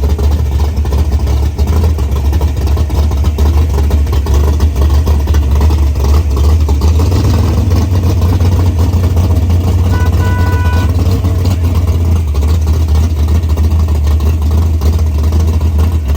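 Steady, loud low rumble with a hiss of noise over it, and a short pitched electronic-sounding beep about ten seconds in.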